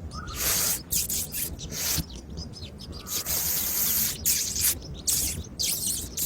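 Feeding birds: irregular bursts of high, hissy rustling and chattering follow each other every fraction of a second, with a few short chirps mixed in.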